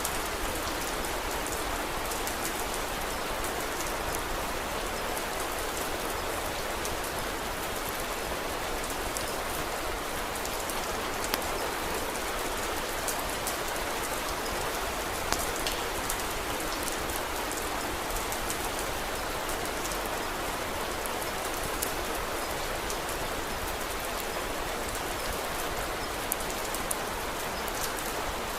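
Steady rain falling, with a few sharp pops of a crackling wood fire scattered through it.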